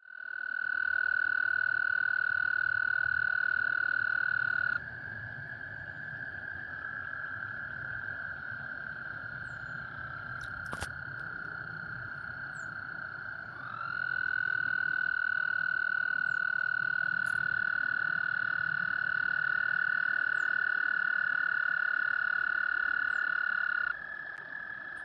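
A chorus of frogs giving long, steady, high-pitched trills, several voices overlapping at slightly different pitches. The loudest trill stops about five seconds in, and another starts around fourteen seconds and runs until near the end. There is a single sharp click near the middle.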